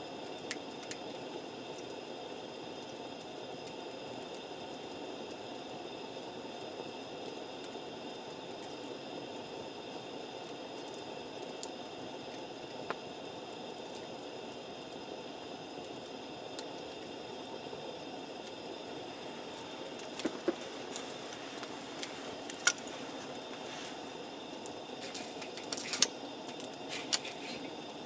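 Campfire burning with a steady hiss and scattered sharp crackles and pops from the wood. The pops come more often and louder in the last several seconds.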